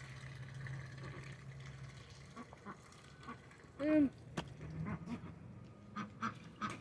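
Domestic ducks quacking as they feed: one loud, arching quack about four seconds in, with softer short calls and a few small clicks near the end.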